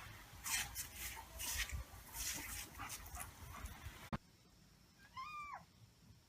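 Irregular bursts of rustling noise, then, after an abrupt click, a single short whining call from an animal that bends in pitch and falls away at the end.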